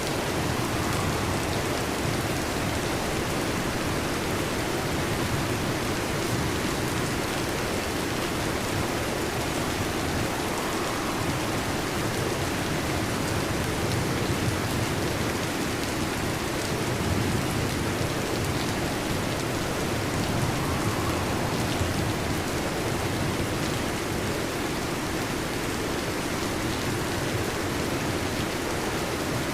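Steady heavy rain, an even hiss with slight swells in level.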